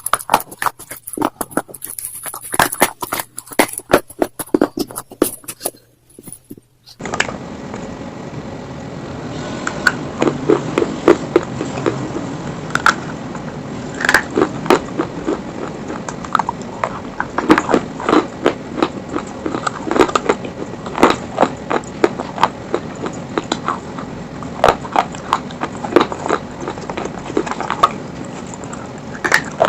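Close-up crunching and chewing of slate stone pieces: a dense run of crisp cracks and crackles as they are bitten and ground between the teeth. About seven seconds in, the sound changes abruptly to a duller recording with a steady hiss beneath the crunches.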